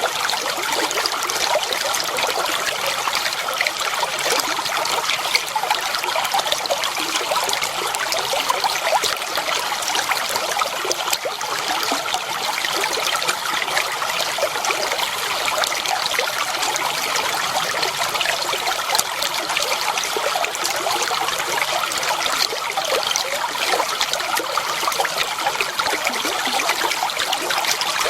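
Clear water flowing and trickling steadily over stones, a continuous babbling rush.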